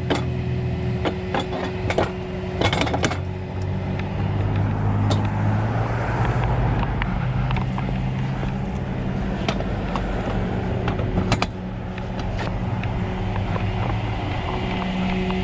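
Vehicle engine idling steadily, with scattered clicks and knocks over it.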